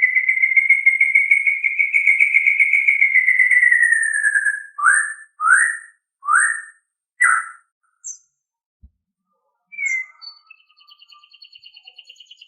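White-rumped shama (murai batu) singing: a long, wavering whistle that falls slightly and ends about four seconds in, then four short sweeping notes in quick succession. A couple of brief calls and a fainter, higher trill follow near the end.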